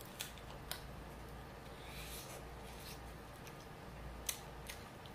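A person biting and chewing a crispy fried chicken wing: a few sharp crunching clicks spread out over a faint low hum.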